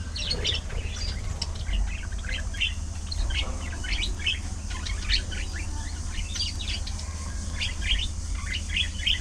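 A flock of budgerigars chattering, with many quick overlapping chirps throughout, over a steady low hum.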